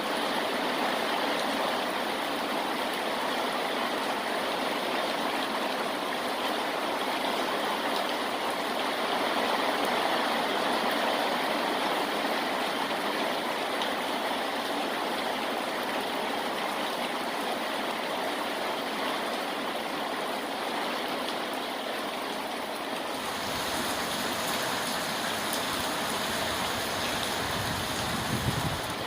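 Steady rain falling, a continuous even hiss of water. About 23 seconds in, the sound changes and takes on more low rumble.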